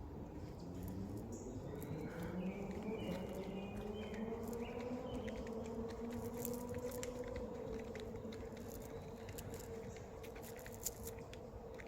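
Flying insect buzzing close by, a steady droning hum whose pitch slowly rises and wavers, the lower part fading out about seven seconds in while the higher hum carries on. Scattered light clicks and a few faint high chirps sit around it.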